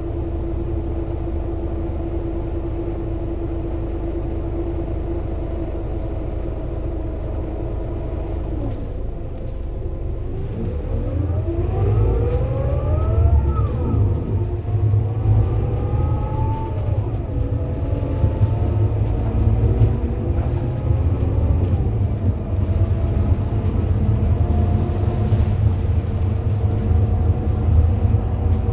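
Scania K230UB bus diesel engine and ZF Ecomat six-speed automatic gearbox: steady idle, then from about ten seconds in the bus pulls away and accelerates, the pitch rising and dropping back about three times as the gearbox upshifts, getting louder.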